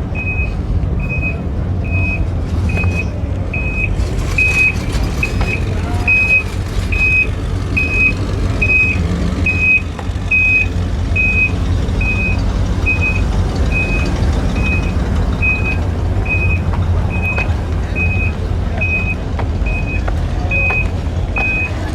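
Vehicle backup alarm beeping in a steady single high tone, a bit more than once a second, over a constant low rumble.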